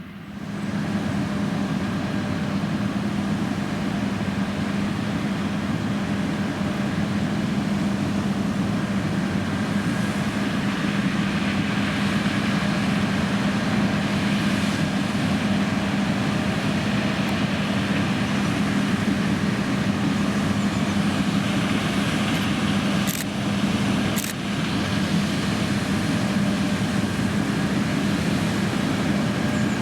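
John Deere X9 1100 combine harvester running steadily under load while harvesting oilseed rape: an even machine drone with a strong low hum. Two brief clicks come near the end.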